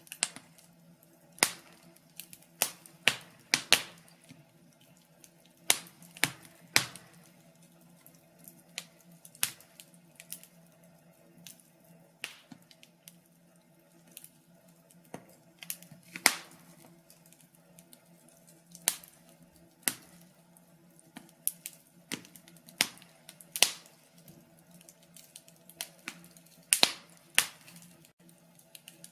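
Wood fire crackling: irregular sharp pops and snaps, now single, now two or three in quick succession, over a faint steady hum.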